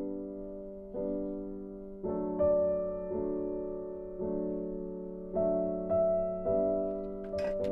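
Background piano music: gentle sustained chords struck about once a second, each fading before the next.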